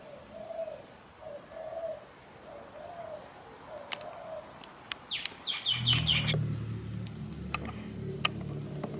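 A dove cooing, the same short coo repeated about five times at an even pace, then a quick run of high chirps about five seconds in. A low steady hum with several tones comes in just before two-thirds of the way through and carries on.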